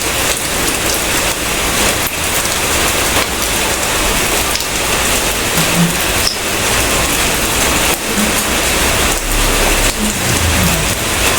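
Steady heavy rain falling, with scattered individual drop taps.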